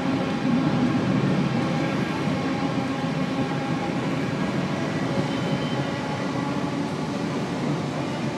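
A long passenger train crossing a steel truss bridge: a steady running noise of the wheels on the rails.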